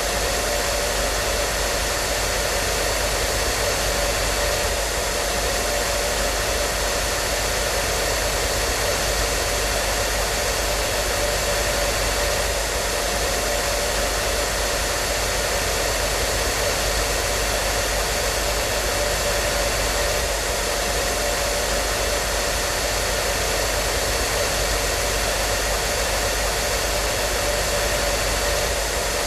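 Hair dryer running steadily: an even rushing hiss of air with a faint steady hum underneath, unchanging throughout.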